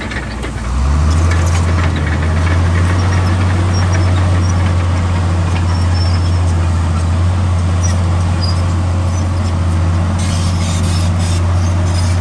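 Heavy diesel engine of earthmoving machinery running under load, a steady low drone that rises in pitch about a second in and then holds steady.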